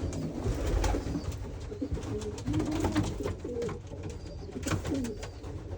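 Domestic pigeons cooing, several low, wavering calls, with scattered light clicks and scuffs around them.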